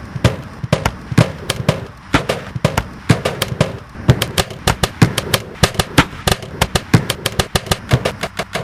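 A rapid, rhythmic pattern of sharp knocks and clicks built from short snippets of recorded sound cut, layered and looped, several hits a second; the hits grow denser about four seconds in.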